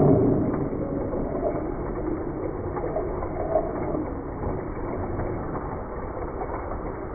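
A motorised Lego train running, its small electric motor and plastic gears whirring steadily.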